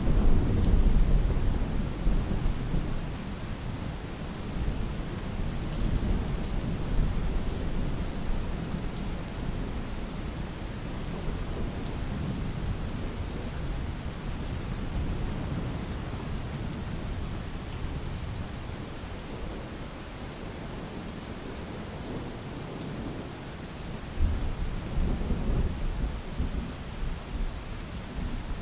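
Steady rain falling, with low rolls of thunder rumbling through it in the first few seconds and again near the end.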